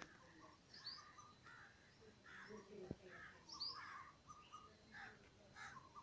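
Faint birds calling outdoors: scattered short calls with a couple of brief high, falling chirps.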